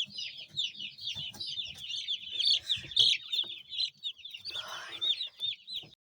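A crowd of day-old broiler chicks peeping continuously, a dense chorus of short, high, downward-falling chirps, with occasional soft knocks and rustling.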